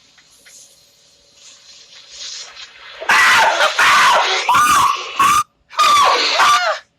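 A faint hiss, then about three seconds in a man starts screaming loudly in several high, wavering bursts that break off briefly and resume. He is screaming in alarm at a firework set off indoors.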